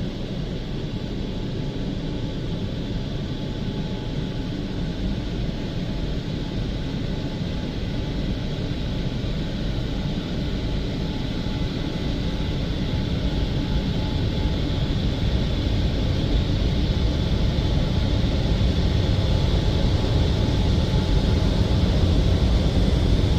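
WashTec SoftCare SE car-wash dryers, the FlexStream rotary roof dryer and the side dryer fan motors, blowing air at the car in a steady rushing noise. It grows gradually louder.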